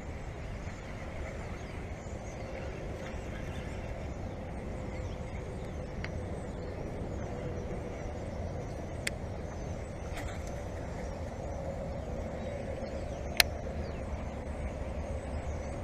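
Wind on the microphone as a steady low rumble, with a few sharp ticks, the loudest about thirteen seconds in.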